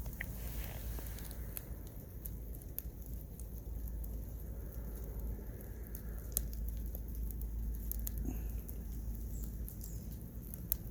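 Wood fire burning in a Solo Stove, giving scattered sharp crackles and pops at uneven intervals over a low steady rumble, with one louder pop about six seconds in.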